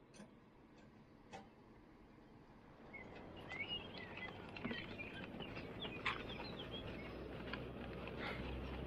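Small birds chirping faintly against outdoor background noise. Before the chirping starts about three seconds in there are a couple of sharp clicks, and a low rumble builds in the second half.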